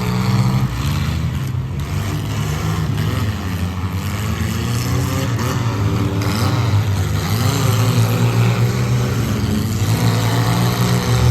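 Several mid-size race trucks' engines running hard together, revving up and down in overlapping pitches as the trucks race around the track.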